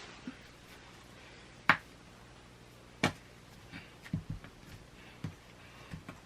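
Sharp clicks and knocks of plastic Play-Doh tools on a tabletop while the dough is being rolled and worked. There are two loud clicks about a second and a half apart, then a run of lighter taps.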